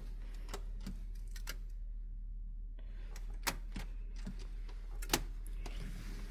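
Scattered light clicks and taps at an irregular pace, roughly one or two a second, over a steady low hum.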